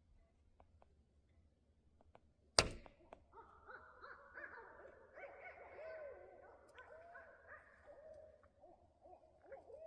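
A sharp click about two and a half seconds in, then owls calling over one another in a run of rising and falling, monkey-like cries that go on until near the end.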